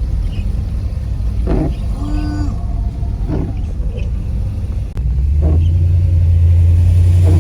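Car engine running with a deep, steady rumble that rises and gets louder about five seconds in. A short pitched tone sounds briefly about two seconds in.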